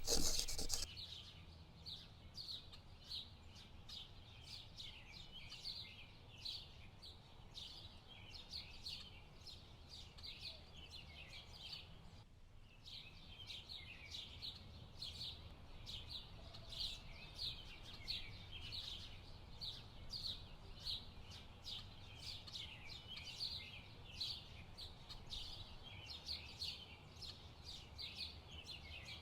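Dense outdoor chorus of many high, quick chirping calls, overlapping several a second, breaking off briefly about twelve seconds in, over a low steady rumble.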